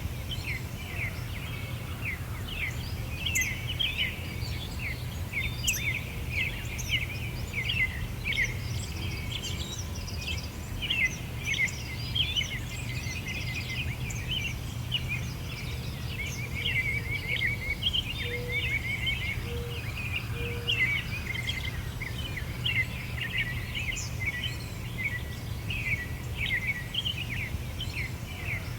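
A chorus of small songbirds chirping and twittering rapidly and continuously, over a steady low rumble of background noise.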